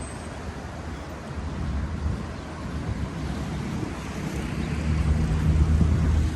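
Wind rumbling on the microphone, with a low engine hum that grows louder over the last couple of seconds.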